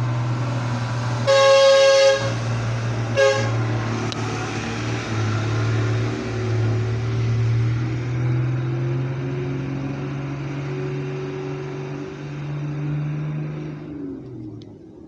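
Heavy flatbed truck's engine running as it passes, with one long horn blast about a second in and a short toot about a second later. The engine sound fades away near the end.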